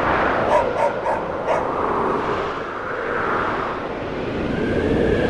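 Snowstorm wind blowing steadily, with a dog barking about four times in quick succession between half a second and a second and a half in.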